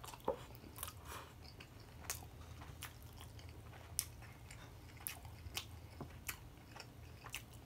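A person chewing food close to the microphone: a string of short, soft wet clicks and smacks.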